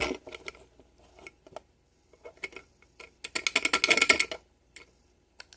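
Small hard objects being handled: scattered light clicks and taps, then a dense rattle for about a second just past the middle.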